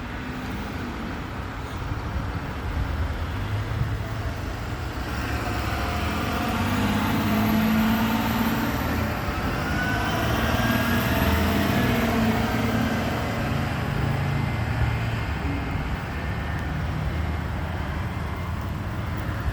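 Road traffic: motor vehicles going by, the engine sound building to its loudest in the middle and easing off near the end. A faint high whine rises and falls twice in the middle.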